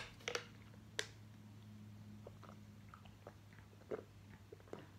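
Faint chewing and mouth sounds with a few soft clicks, then drinking from a plastic water bottle near the end, over a low steady hum.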